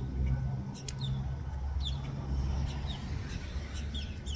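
Small birds chirping, a run of short, quick downward-sliding notes repeating over and over, over a steady low rumble.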